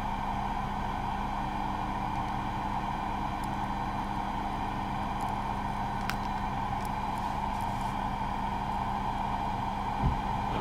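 Steady, unchanging hum of a vehicle running, with a faint click about six seconds in.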